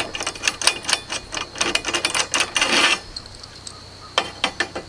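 Rapid clicking and rattling of chainsaw-mill hardware as the dog bracket is fitted and its bolt screwed in. The clicks stop about three seconds in and start again near the end.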